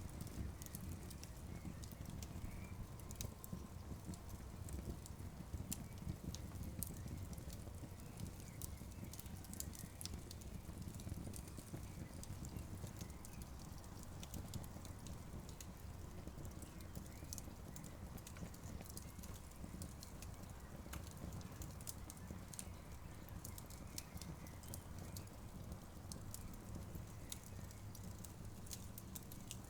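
Wood campfire burning, with frequent irregular sharp crackles and pops over a low, steady rumble.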